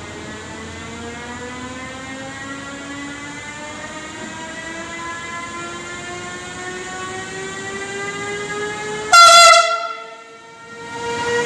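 Electric train's traction motors whining, the pitch rising steadily as it accelerates, with one short, loud train horn blast about nine seconds in.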